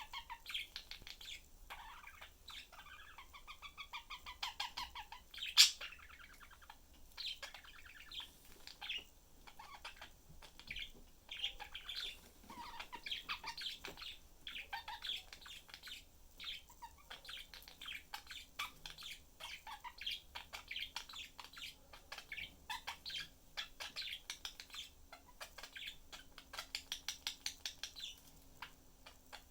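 Pet budgies (budgerigars) chattering, a steady stream of quick chirps and warbling notes. There is a sharp click about five seconds in, louder than the chirping.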